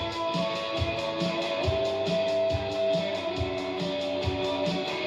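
Indie rock band playing an instrumental passage live: electric guitar notes ringing over a steady drum beat, with the kick thumping about twice a second under quick hi-hat ticks.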